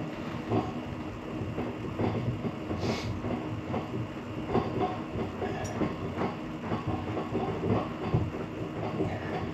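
Irregular knocking and clanking of tools and metal parts over a steady low hum, as a Hudson float valve is worked loose and pulled out of the water tank to check why it stuck.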